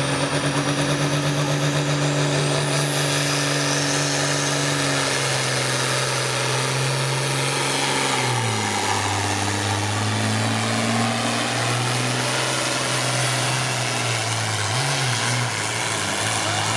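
Pulling tractor's engine running hard under load as it pulls the sled, with a high whine rising over the first few seconds. About halfway through, the engine note drops and holds lower as it lugs down against the building weight.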